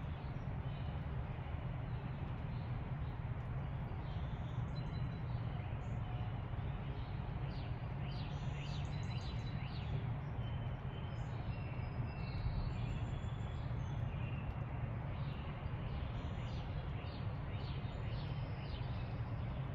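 Songbirds chirping and calling, short high chirps and trills scattered throughout, over a steady low rumble of background noise.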